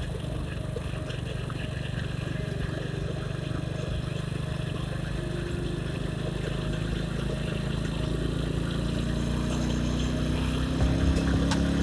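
Motorcycle engine running while riding, its pitch climbing and getting louder toward the end as it speeds up.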